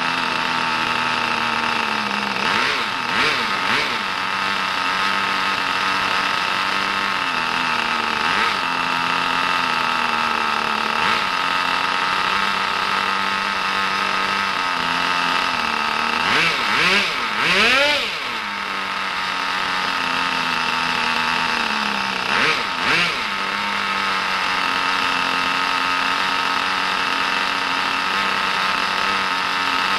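Brand-new Kyosho GS11X engine in a Pure Ten RC car idling steadily on its first run, blipped up in short revs several times, with a quick run of three revs a little past halfway.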